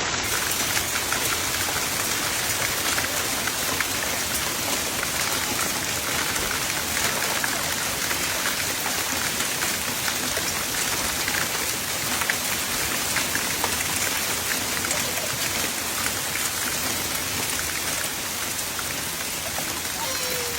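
Heavy storm precipitation pelting down: a dense, steady hiss with many small sharp hits on hard surfaces.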